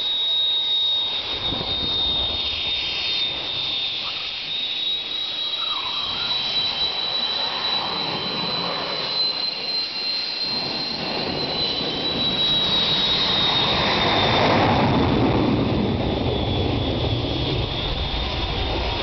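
Motorcycle engine held at high revs with a steady high whine, swelling louder about two-thirds of the way through.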